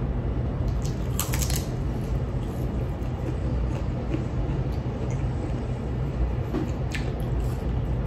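Chewing and soft mouth clicks while eating crisp salad and cabbage, with a few sharper crunches about a second in and again near the end. Under it runs a steady low rumble.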